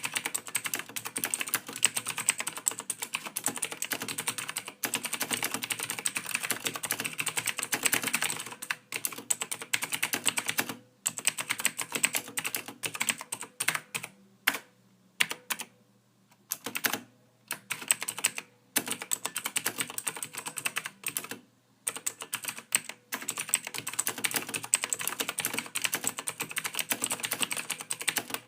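Soft typing on a computer keyboard: fast runs of key clicks broken by short pauses of about a second.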